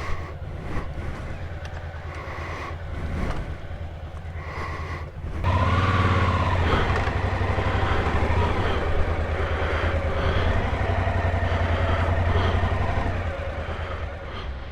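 Suzuki V-Strom DL1000's V-twin engine running at low speed. It gets louder about five seconds in and eases off again near the end.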